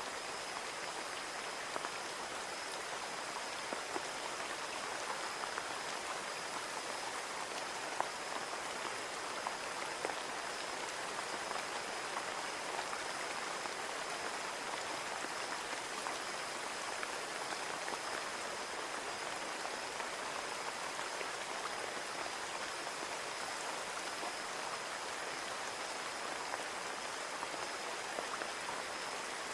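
Steady rain falling on a window, a constant hiss with many small scattered drop taps on the glass, and a faint steady high-pitched tone running underneath.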